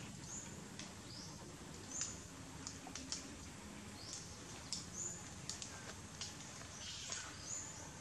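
Birds calling in forest: short, high chirps that sweep upward, repeated every second or two, with a few scattered faint clicks.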